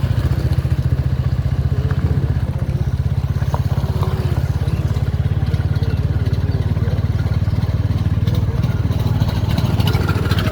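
Motorcycle engine running steadily while riding, a low, rapid pulsing from its exhaust that holds even throughout.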